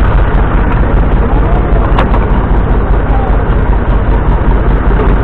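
Tractor engine running steadily, with a single sharp click about two seconds in.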